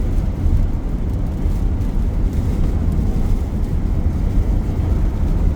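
Steady low rumble inside a moving car: road and wind noise from driving through gusty storm winds.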